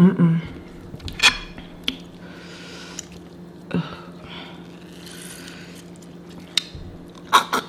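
Close-up eating sounds of seafood boil: wet chewing and smacking with scattered sharp clicks and crunches, over a faint steady hum.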